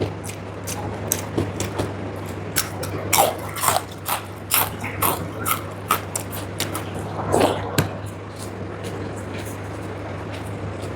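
Close-up mouth sounds of eating a wet rice meal: moist chewing, lip smacks and slurps in quick irregular clicks, thinning out after about eight seconds, over a steady low hum.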